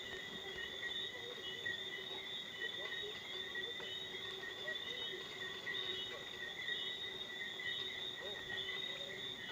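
Night insect chorus: crickets trilling steadily at several even pitches, with small scattered chirps and a faint steady hiss underneath.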